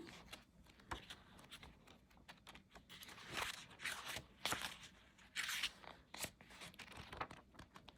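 Pages of a book being turned by hand: several soft paper swishes, about three and a half, four and five and a half seconds in, with light paper ticks and rustles between.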